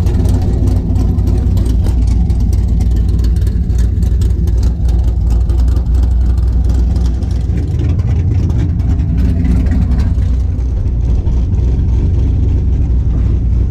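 V8 engine running with mufflers removed and the X-pipe sleeve blown off, so the exhaust is open under the car: a loud, steady, deep rumble with a rough crackle over it.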